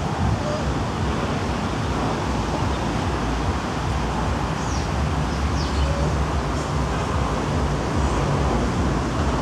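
Steady low rumble of road traffic, with a few faint, short high chirps about halfway through.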